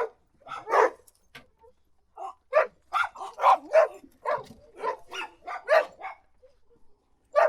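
A dog barking: a single bark, a pause of over a second, then a quick run of barks, two or three a second for about four seconds, and one more bark near the end.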